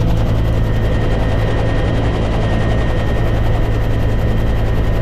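Helicopter running steadily and loudly, a constant low hum with a thin steady high whine over it.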